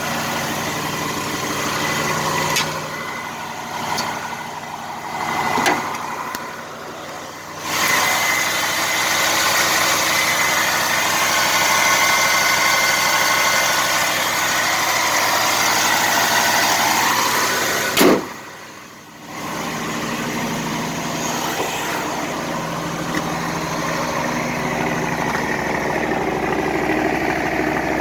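Engine of a 1975 vehicle idling steadily after a cold start, its level rising and falling, with a single sharp knock about eighteen seconds in.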